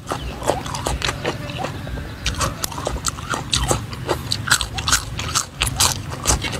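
A person chewing and crunching raw green vegetables close up: many short, irregular crunches.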